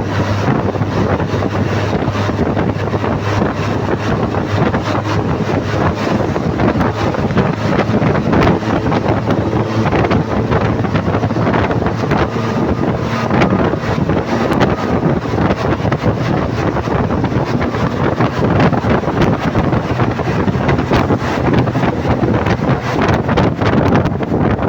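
Wind buffeting the microphone over a steady low motor hum, continuous and unchanging.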